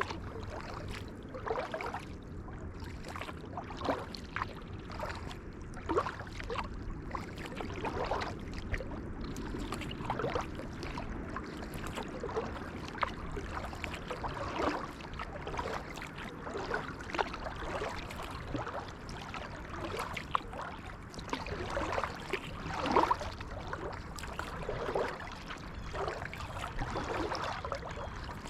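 Kayak paddle strokes, the blade dipping and splashing into the water about once every two seconds, with water trickling and gurgling along the hull.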